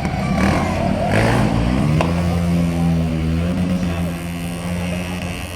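Car engine revving: the pitch climbs quickly about a second in, then is held steady at high revs for about three seconds before easing off near the end, as for a burnout. A sharp click comes about two seconds in.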